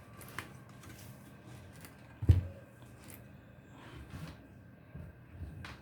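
Handling noise from hooking a power supply's cable up to a desktop motherboard on the bench: faint clicks and rustles, with one sharp knock a little over two seconds in.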